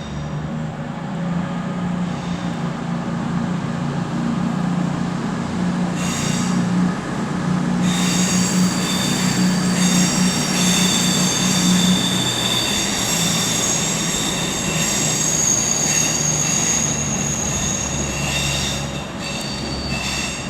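Class 221 Super Voyager diesel-electric unit pulling out, its diesel engines running steadily under power. From about six seconds in, a high-pitched wheel squeal of steel flanges on curved track rises over it and fades near the end.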